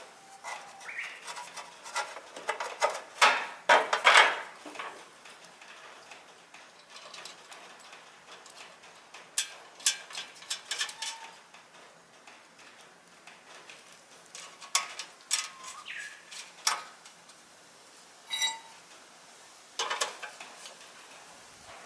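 Irregular clinks and clatter of small hard objects being handled, like tools or metal parts being picked up and set down. The loudest clatter comes about three to four seconds in, with a short ringing ping near the end.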